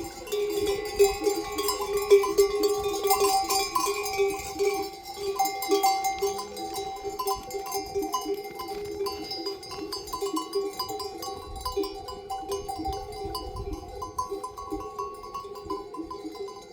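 Many livestock bells clanking irregularly at several pitches at once, the sound of a flock on the move. They are a little louder in the first few seconds.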